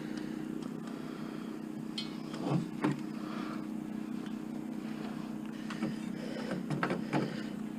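Steady hum of an idling vehicle engine, with a few light clicks and knocks of metal handling at a barbecue's propane tank fitting.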